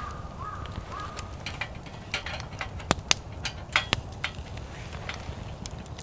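A bird calls with short, slightly rising notes, about two a second, during the first second or so. Then come sharp wood cracks and snaps, the loudest about three and four seconds in, in the middle of lighting a wood campfire.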